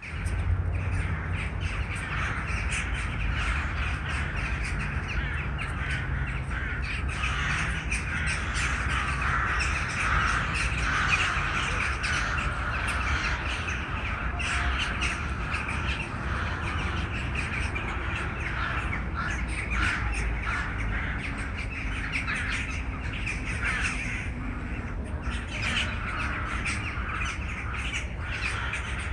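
A large flock of birds calling over one another, a dense, unbroken chatter of many short overlapping calls, over a steady low rumble.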